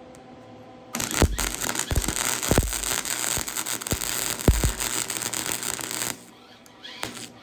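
Flux-core wire welder arc crackling and hissing in a run of about five seconds, with several irregular pops along the way. It starts about a second in and cuts off suddenly.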